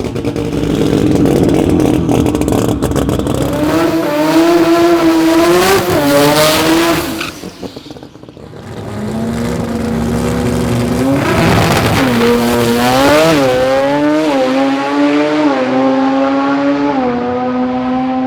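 Turbocharged Mazda rotary drag cars accelerating hard down the strip. The engine pitch climbs and drops back at each gearshift, about three times in the first half. The sound fades around the middle, then a second run's revs climb through several more shifts.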